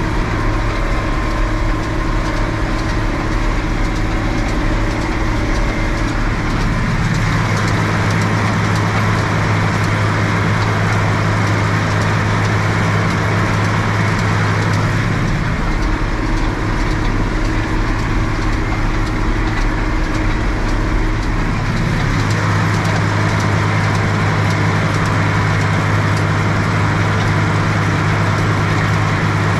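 Tractor diesel engine running steadily under work, its note shifting about a quarter, halfway and three-quarters of the way through.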